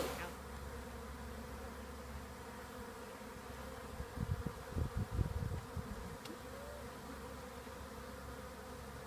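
Swarm of honeybees buzzing steadily around a hive box they have just been shaken into, with a few low bumps in the middle.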